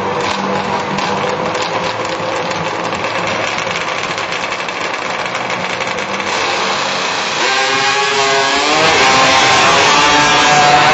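Drag-racing motorcycle engine running steadily, then revving in the last few seconds, its pitch climbing and falling and growing louder.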